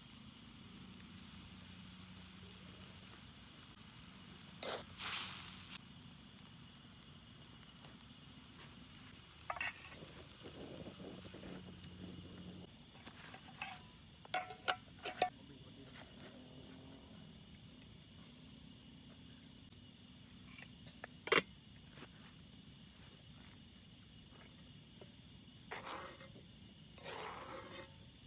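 Steady insect chorus, a high, finely pulsing trill, with scattered sharp clicks and knocks, the loudest a few seconds in and about two-thirds of the way through.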